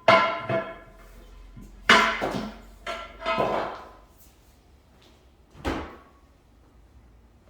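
Hammer blows ringing on the steel of a truck wheel as a tire is worked off its rim: a few quick strikes at the start, more around the second and third seconds, and one last strike near the end.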